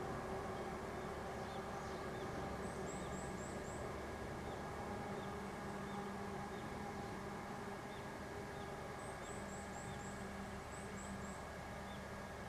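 Outdoor ambience: a steady hum and haze with two short runs of rapid high-pitched chirping calls, about three seconds in and again near the end, and scattered faint lower chirps between.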